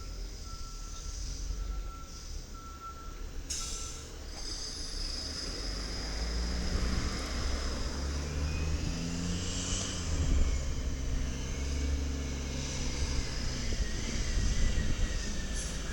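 Side-loader garbage truck's reverse beeper sounding in repeated beeps, which stop with a short hiss of air about four seconds in. The truck's engine then revs up and runs harder, with a faint rising whine over its low rumble.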